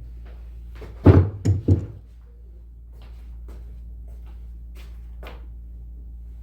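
Three sharp knocks in quick succession about a second in, then a few lighter taps: a carving mallet striking a chisel into wood. A steady low hum runs underneath.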